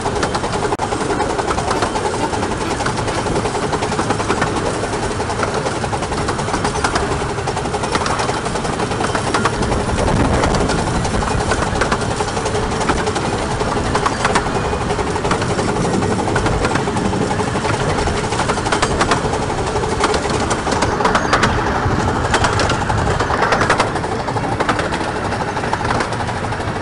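15-inch-gauge miniature railway train running at speed: a steady rumble and rattle of carriage wheels on the track, with many small clicks and knocks, heard from an open carriage window.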